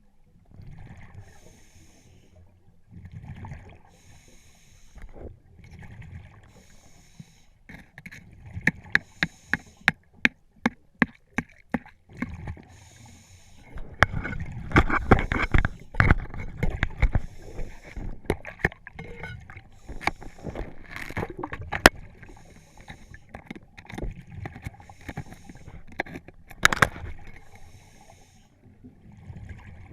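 Scuba diver breathing through a regulator underwater: a hiss about every two seconds as the diver inhales, and rushing bubbles as the diver exhales, loudest about halfway through. A run of sharp clicks comes shortly before that.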